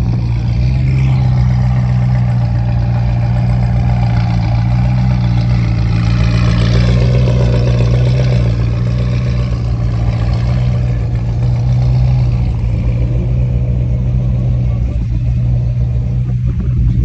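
A car engine running steadily, a low drone that holds the same pitch, with the sound swelling slightly in the middle.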